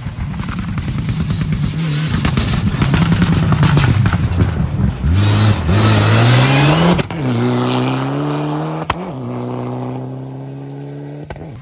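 Rally car passing at full throttle on a gravel stage, its engine rising in pitch and changing up three times, with a sharp crack at each upshift, then pulling away as the sound eases off.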